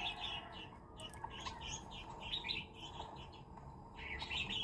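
A small bird chirping: a continuous run of short, high chirps.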